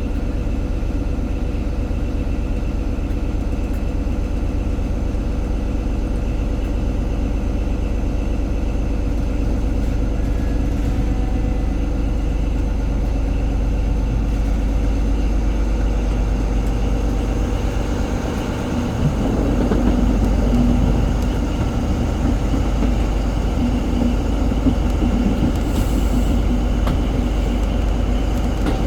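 Class 43 HST power car's diesel engine running steadily, heard from the train behind it, growing louder about two-thirds of the way in.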